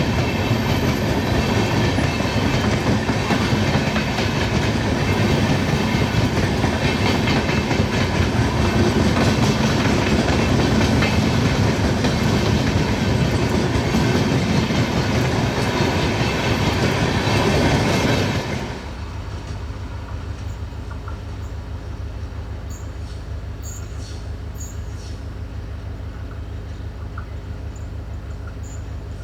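Express train passing at speed, its wheels clattering over the rail joints with a dense rumble. It ends abruptly about two-thirds of the way through, leaving a steady low engine hum.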